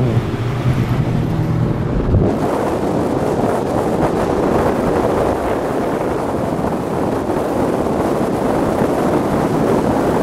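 Turbocharged 2001 Ford Mustang GT's V8 running on the move, its steady engine note giving way about two seconds in to loud wind noise rushing over the microphone.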